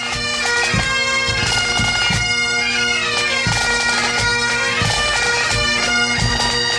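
Great Highland bagpipe playing, plausibly a set of David Naill pipes: steady drones held under a chanter melody that moves from note to note. Low thumps sound beneath it.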